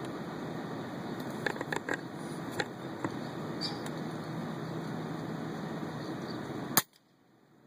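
Steady wind noise on the microphone, with a few faint short clicks and chirps. Near the end comes one sharp click, and then the sound cuts off abruptly to near silence.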